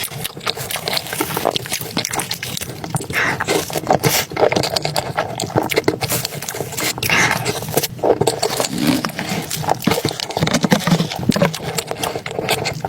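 Close-miked eating sounds: wet chewing, smacking and slurping in quick, irregular clicks, with the odd scrape.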